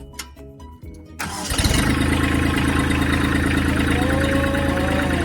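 Kubota tractor's diesel engine being started: a run of short tones, then about a second in a brief burst of starter cranking, and the engine catches and keeps running steadily.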